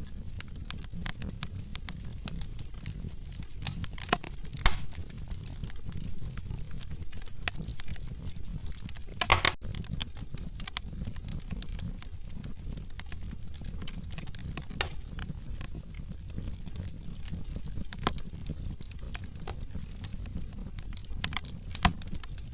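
Wood logs burning in a fireplace, crackling with many irregular small snaps over a low steady rumble of the flames. A few pops stand out, the loudest about four and a half seconds in and a longer one about nine seconds in.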